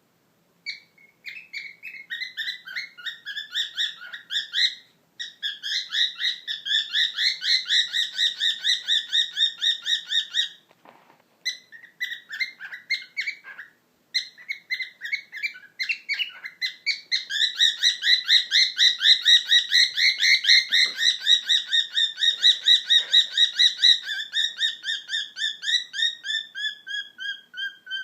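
Cockatiel calling in long runs of rapid, short chirps, about four a second, with a couple of brief pauses.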